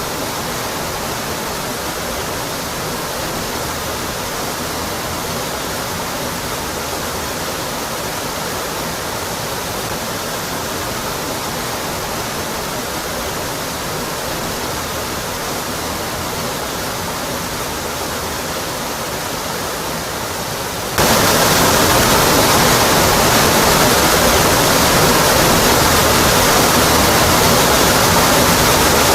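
Rocky Brook Falls: a waterfall's water pouring onto rock in an even, steady rush. About two-thirds of the way in, the rush steps abruptly louder and fuller, then holds steady.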